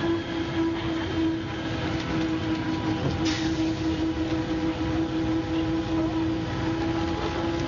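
MCW Metrobus double-decker bus running steadily, its drivetrain giving a constant drone with a steady whine over a low rumble. There is a brief higher hiss about three seconds in.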